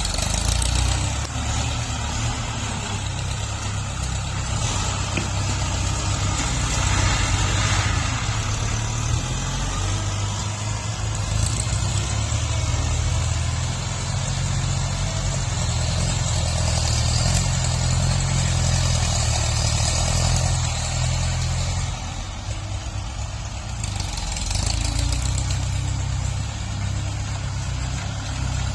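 Tractor diesel engine running steadily while grading soil, its level rising and falling with the work and dipping briefly about 22 seconds in.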